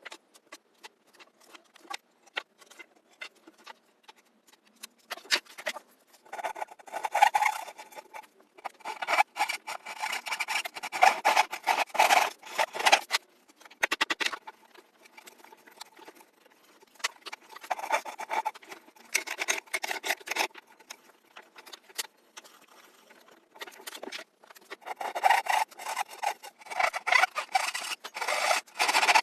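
Hand rasping or sanding strokes, rubbing back and forth in spells of a few seconds with quieter pauses between them.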